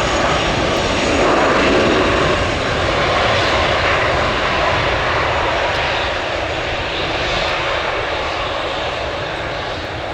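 Jet airliner engines roaring past, loudest a second or two in and then slowly fading as the aircraft moves away.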